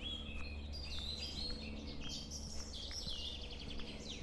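Small songbirds chirping and singing, many short high calls and trills overlapping throughout, over a low steady rumble.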